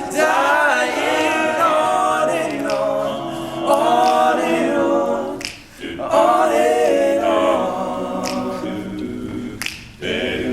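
A cappella vocal group singing in close harmony, with finger snaps keeping the beat.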